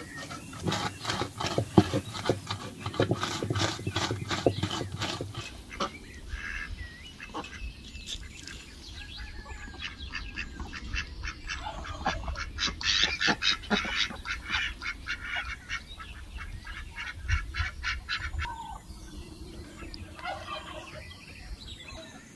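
Ducks calling in a quick run of calls, with scattered quieter calls after. Before that, in the first few seconds, hands working food in a bowl make a quick run of clicks and rubbing.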